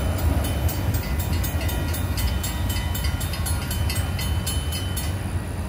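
The tail end of a CSX freight train rolling through a grade crossing with a low rumble, while the crossing bell dings rapidly and steadily. The bell stops about five seconds in.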